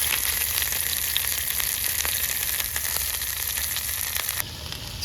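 Steak sizzling on a Coleman propane camping stove: a dense hiss with scattered sharp pops. The burner is running hot, since its lowest setting is about medium heat. The sizzle drops off abruptly about four and a half seconds in.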